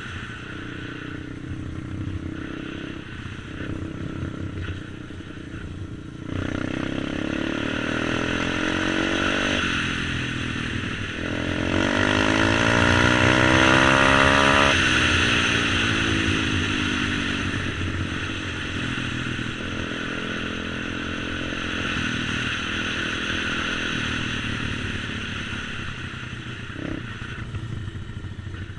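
125cc supermoto pit bike engine being ridden, revving up through the gears and easing off. Its pitch climbs, drops at each change and climbs again, and it is loudest about twelve to fifteen seconds in, during a hard pull.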